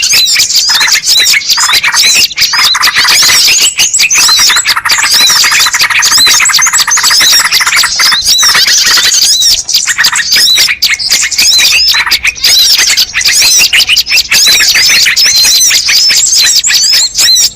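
Bird-lure recording: a loud, dense chorus of many small birds calling at once, quick overlapping chirps with no pause.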